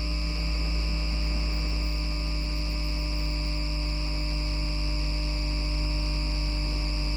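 Electric drive of an FGV Class 4200 Bombardier Flexity Outlook tram, with its MITRAC IGBT VVVF inverter and traction motors giving a steady electrical whine of several held pitches over a deep hum. The pitches stay level, with no climb or fall.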